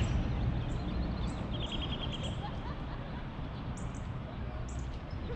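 Small birds chirping, with a quick trill of about eight notes around a second and a half in and a few high short chips later, over a steady low rumble.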